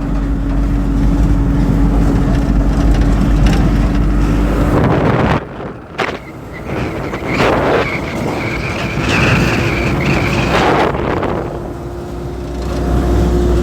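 Driving noise of a car heard from inside while it moves: a steady engine and road hum. About five seconds in it drops away suddenly, giving a quieter, noisier stretch with a steady high tone lasting a few seconds, before the low driving hum returns near the end.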